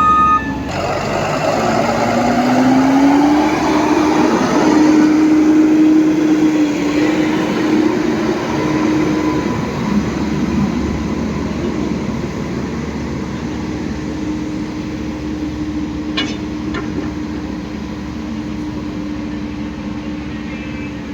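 Heavy diesel engine of a road-works vehicle running, its pitch rising about two seconds in and then holding steady, with the noise easing off in the second half. A reversing beeper stops just after the start.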